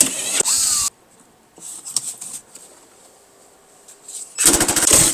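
A power tool running in two short bursts, one stopping about a second in and another starting near the end, with light handling noises between, as fasteners come off the car's cowl.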